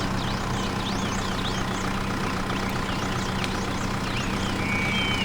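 Steady low motor hum running at an even level, with many short high chirps scattered throughout.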